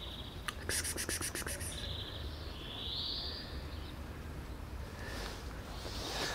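A small bird chirping, with a quick run of high ticks about a second in, then a high, slightly rising call lasting a second or two. Under it is a low, steady outdoor rumble.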